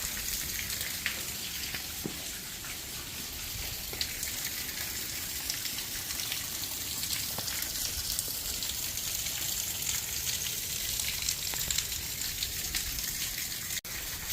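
Creek water running over rocks, an even hiss with small scattered ticks.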